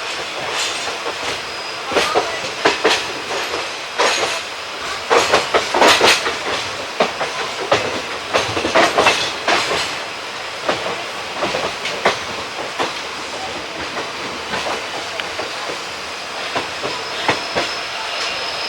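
ICF passenger coach running along the track: wheels clattering over rail joints in irregular clicks and clunks, busiest in the first half, over a steady rushing noise with a faint thin high whine.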